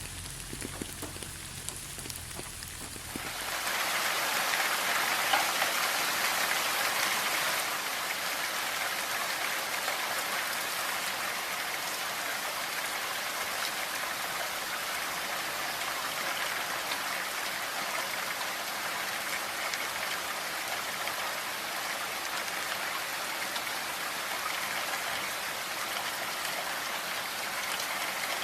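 Steady rain falling, an even hiss that turns denser and louder about three seconds in. A faint low hum sits under the lighter rain at the start.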